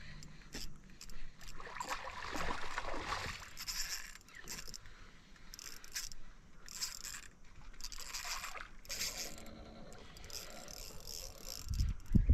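Irregular water splashing and scraping around a small boat, with scattered knocks and rustles.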